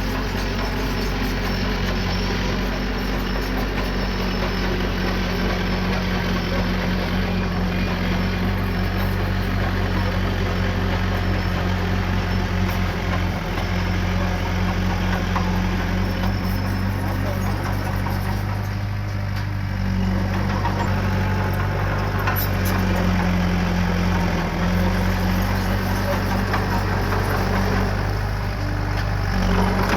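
Diesel engine of small earthmoving machinery running steadily at work, its note easing briefly about two-thirds of the way through.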